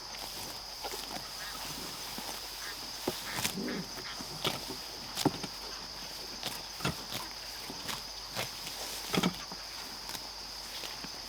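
Livestock moving and grazing on fresh pasture grass: scattered crunches and rustles, with a short low animal call about three and a half seconds in. A steady high-pitched hum runs underneath.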